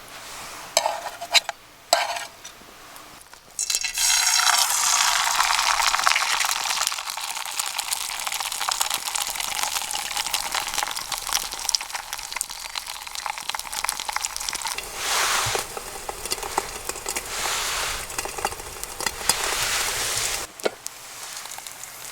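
Food frying in a hot pan: a few sharp knocks, then a loud sizzle that starts suddenly about four seconds in and keeps going.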